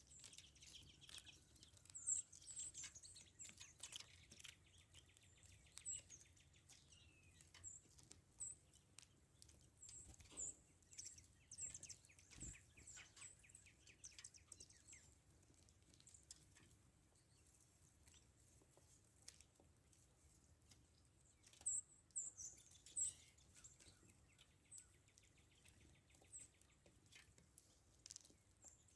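Small songbirds giving short, very high chips and calls, scattered and repeated throughout, with faint ticks in between.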